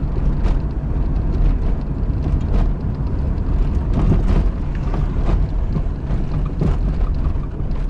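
Car on the move: a steady low rumble of road and engine noise, with a few short knocks.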